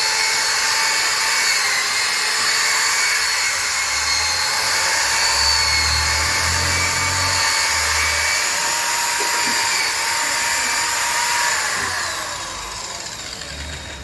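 Electric power tool running at a steady high-pitched whine with a rushing hiss. About twelve seconds in it is switched off, and the whine falls in pitch as it winds down.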